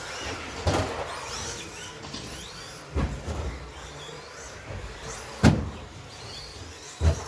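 Electric RC stadium trucks racing, their 13.5T brushless motors whining up and down in pitch as they accelerate and brake. Four sharp knocks from the trucks cut through, the loudest about five and a half seconds in.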